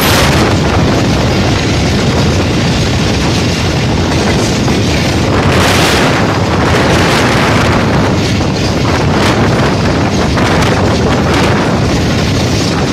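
Passenger coach of the Rehman Baba Express running along the track, heard from on board: a steady, loud rumble of wheels on rails with a few clicks of rail joints and wind buffeting the microphone, with a louder rush about halfway through.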